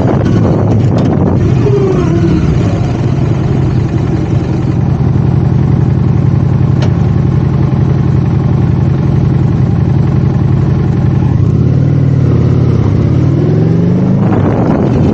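Motorcycle engine on the move: it slows with a falling pitch, runs steadily at low revs, then pulls away with the pitch climbing near the end. Wind noise rushes on the microphone at the start and end.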